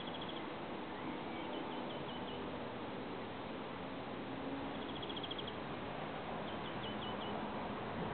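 A small bird calling high and faint twice over a steady background hiss. Each time it gives a short rapid trill followed by four or five quick falling notes.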